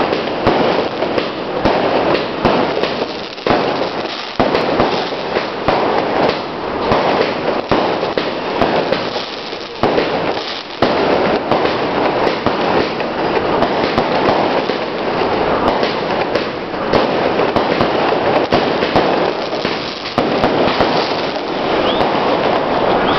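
Fireworks and firecrackers going off in a dense, continuous crackle of rapid small bangs, with a few brief lulls.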